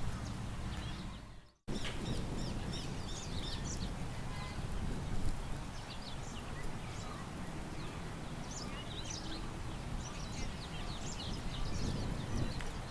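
Small birds chirping in many short, high calls over a steady low rush of wind. The sound fades out to silence and cuts straight back in about a second and a half in.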